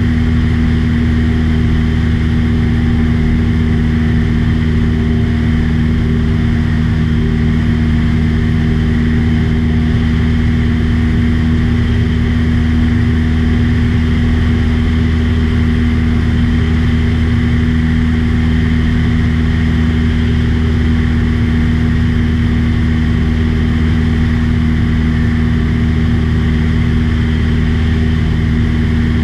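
Steady drone of a light aircraft's engine and propeller at cruise, heard from inside the cabin, holding one pitch without change.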